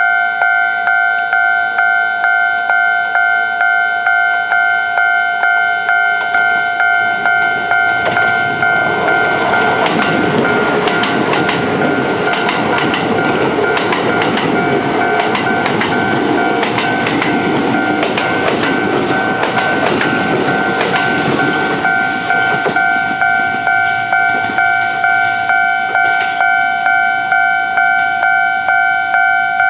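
Level-crossing warning bell dinging in a steady repeating rhythm. From about eight seconds in, two Kintetsu trains pass each other through the crossing: an eight-car 30000, 22000 and 22600 series limited express and a 5200 and 2800 series express. Their rush and the clicking of wheels over rail joints die away after about twenty-two seconds while the bell keeps ringing.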